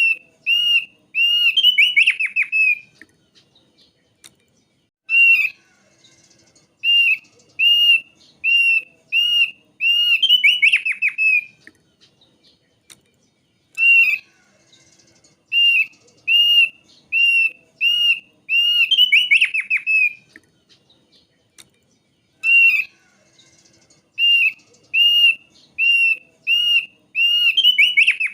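Thick-billed white-eye (opior paruh tebal) singing: runs of short clear whistled notes, about two a second, each ending in a fast rolling trill. The phrase repeats about every eight seconds.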